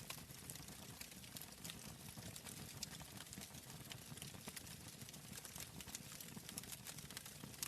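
Wood fire in a fireplace crackling: irregular quick snaps and pops over a low, steady rumble of the flames.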